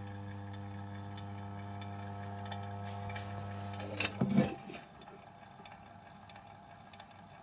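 Electric barbecue rotisserie motor running with a steady hum. The hum ends about four seconds in with a few knocks, and a faint quiet stretch follows.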